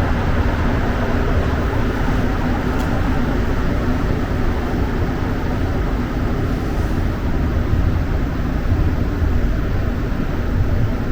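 Montreal metro train, a rubber-tyred subway, running through the tunnel between stations, heard from inside the car as a steady, loud rumble with a faint hum.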